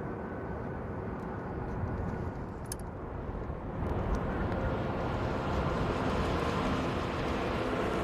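Outdoor vehicle noise: a steady rushing sound with a faint hum that grows louder and brighter about four seconds in, as of a vehicle drawing near. A few faint clicks sound about two and a half seconds in.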